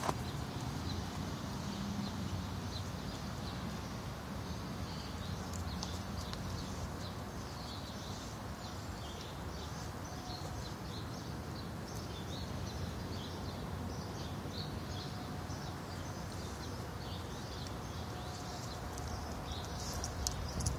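Birds chirping in short, irregular calls over a steady low rumble.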